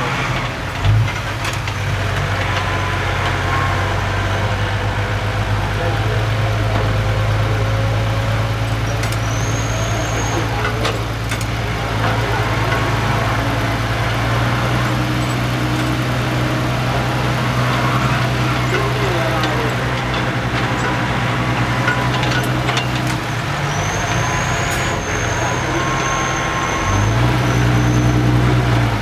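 Six-wheel dump truck's diesel engine running steadily, its pitch dropping a little about 23 seconds in and rising again near the end.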